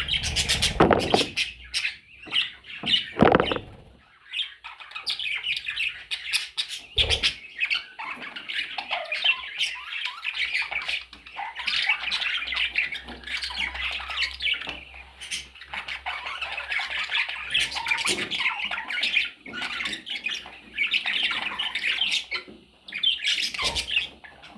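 Small parrots chattering and squawking continuously in a busy mix of short calls. Several loud knocks come in the first few seconds, with occasional single knocks later.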